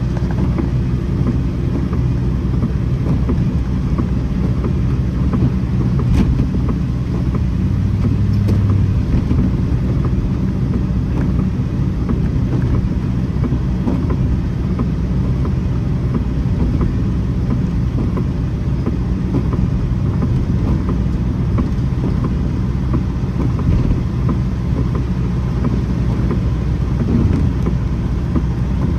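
Heavy rain, a steady rushing noise with a strong low rumble underneath and faint scattered pattering ticks.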